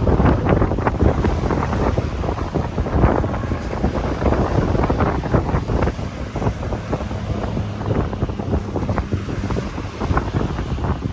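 Strong wind gusting and buffeting the microphone over the rush of sea waves, with no pitched sounds, loudest in the first second or so.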